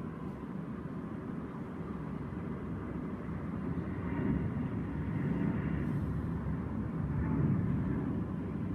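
Boeing 777-300ER airliner passing overhead, the rumble of its GE90 turbofan engines growing louder over several seconds.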